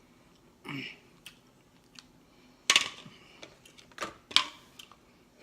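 Sharp clicks and cracks of shellfish shells and dishes being handled during eating, with two loud clusters, one a little under halfway through and one near the end, and a short duller sound near the start.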